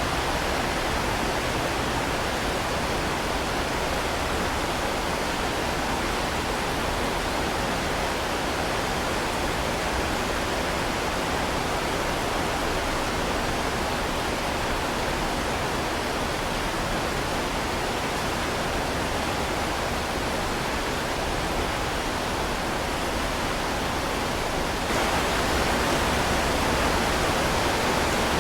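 Heavy rain falling steadily, an even hiss. About three seconds before the end it abruptly gets a little louder.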